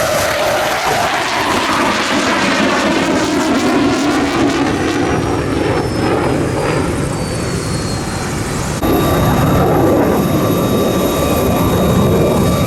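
Leonardo AW249 Fenice twin-turbine attack helicopter flying a display pass, with loud rotor and engine noise and a high whine that falls in pitch as it goes by. The sound jumps abruptly louder about nine seconds in.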